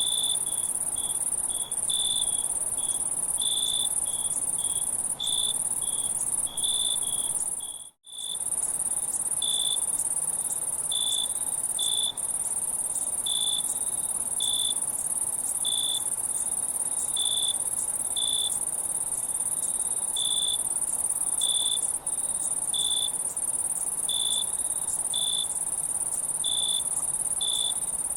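Night insect chorus: a steady high-pitched trill with shorter, lower chirps repeating irregularly about once a second. All of it cuts out for an instant about eight seconds in.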